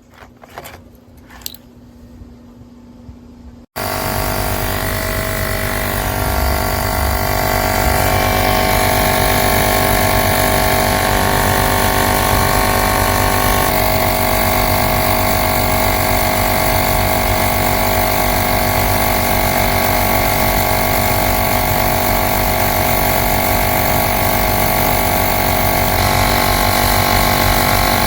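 A few clicks, then about four seconds in the AstroAI L7 portable electric air compressor starts and runs steadily and loudly.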